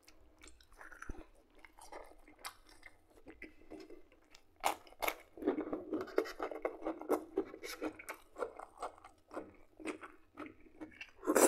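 A man chewing a mouthful of food close to the microphone, with wet mouth smacks and crunches. The chewing is sparse at first and becomes faster and louder from about halfway through.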